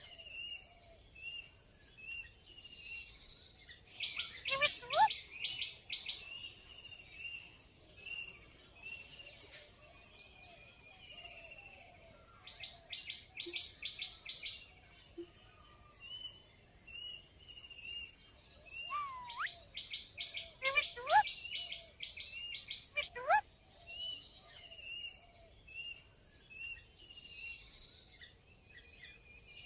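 Indian ringneck parakeet calling: three bursts of rapid, repeated sharp calls and a few loud whistled glides in pitch, over a steady run of short chirps about once a second.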